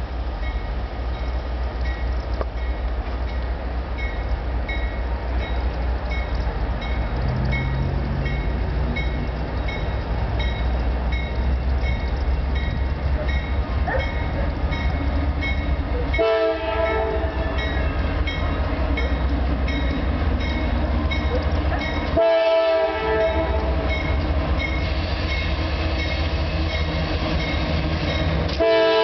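CSX diesel freight locomotives rumbling as a slow-moving intermodal train approaches and draws alongside. The locomotive air horn sounds about halfway through, again a few seconds later, and once more at the very end as the lead units pass close by.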